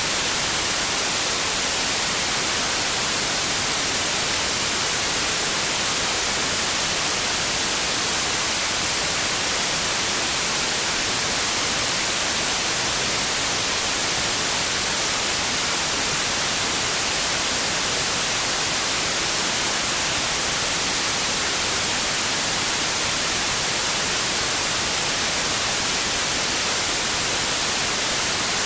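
Steady white noise: an even hiss, brightest in the high frequencies, unchanging throughout.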